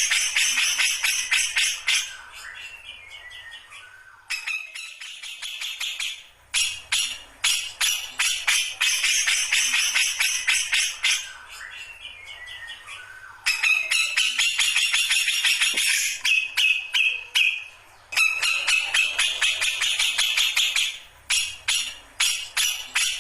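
Grey-cheeked bulbul (cucak jenggot) in full song, with bursts of fast, rattling, jingling chatter and short runs of falling notes between the bursts.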